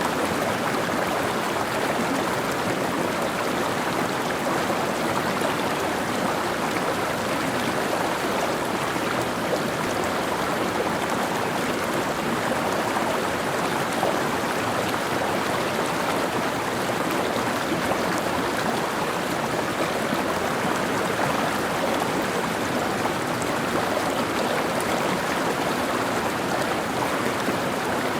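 Mountain stream running over rocks, a steady rushing and burbling of water.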